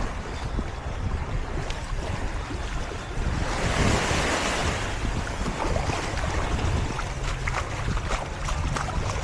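Surf breaking on a sandy beach, with one wave washing in loudly about three and a half seconds in, while wind buffets the microphone with a steady low rumble.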